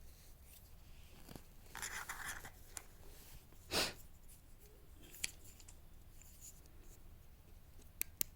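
Faint rustling and scraping handling noise, with one louder swish just before four seconds in and a few sharp clicks, two of them close together near the end.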